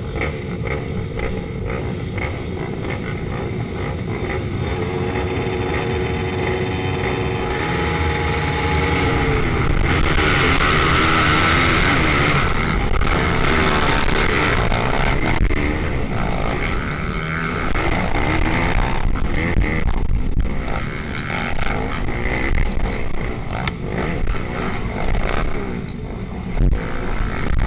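Several pit bike engines running and revving, swelling to their loudest about ten seconds in as they pass close, then rising and falling with each throttle change.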